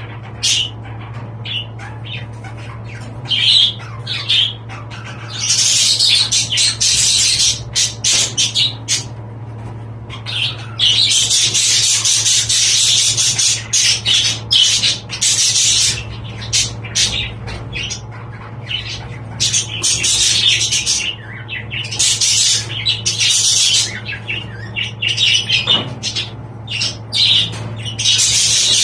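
Budgerigars chattering and squawking in bouts of a few seconds each, with sparser calls between, over a steady low hum.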